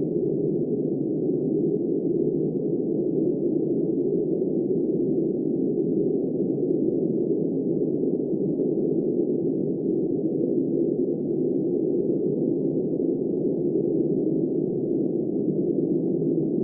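Steady, deep, muffled wind noise: an even rushing sound with no hiss on top, no gusts and no change in strength.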